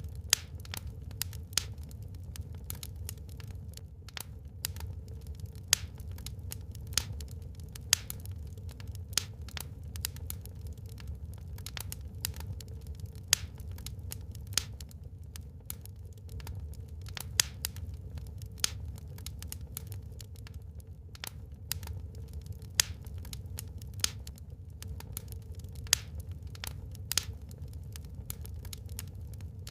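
Wood burning in a fireplace, crackling with irregular sharp pops, a few of them much louder, over a steady low rumble.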